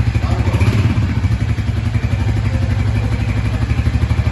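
Royal Enfield Hunter 350's single-cylinder engine running steadily at idle through its stock exhaust, an even train of low thumping pulses with no revving.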